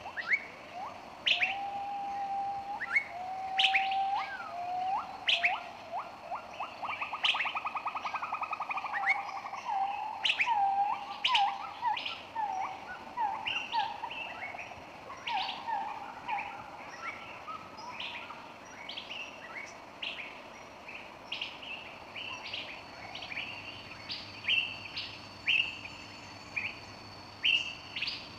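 Birds chirping and calling: many short, sharp chirps and brief whistled notes, with a rapid trill about seven seconds in.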